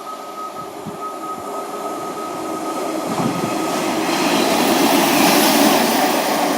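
Class 142 Pacer diesel multiple unit approaching, its engine and wheel noise growing steadily louder, with a thin, steady high-pitched tone running through it.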